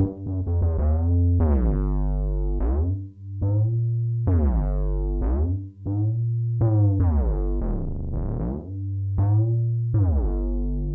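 Waldorf Kyra synthesizer playing a sequence of sustained notes over a held bass, the tone of each note sweeping down and back up in repeated filter sweeps.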